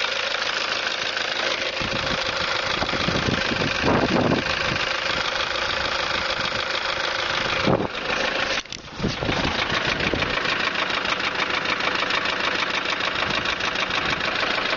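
Toyota 1KD-FTV 3.0-litre four-cylinder turbodiesel running at idle with an even, rhythmic knock, the knock the engine is being recorded for. The sound briefly drops and muffles about eight to nine seconds in, then carries on.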